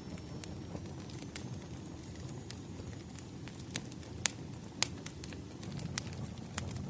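Wood fire crackling: a steady low rumble of burning logs with sharp, irregular pops and snaps, the loudest a little past four and a half seconds in.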